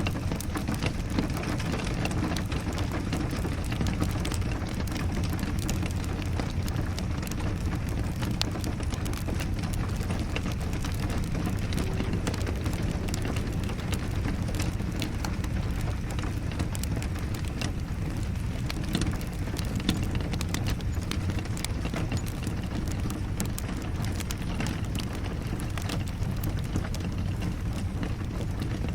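Steady rain with a low rumble, mixed with the frequent small crackles and pops of a wood fire in a fireplace.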